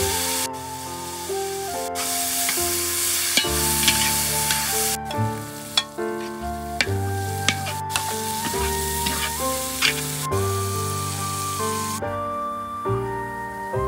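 Beef liver and peppers sizzling in hot oil as they are stir-fried in a wok, with a few sharp clicks of the metal spatula against the pan. The sizzling breaks off briefly a few times and stops near the end. Melodic background music plays throughout.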